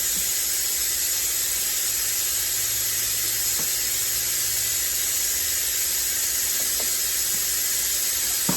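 Steady high hiss with a few faint clicks and taps from hand work on a mower's carburetor and fuel line.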